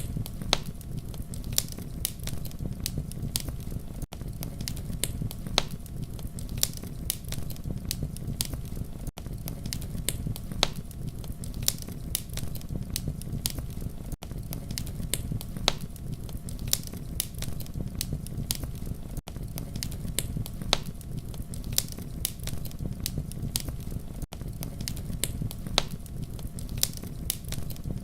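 Wood fire crackling: sharp pops and snaps several times a second over a steady low rumble, with a brief dropout about every five seconds.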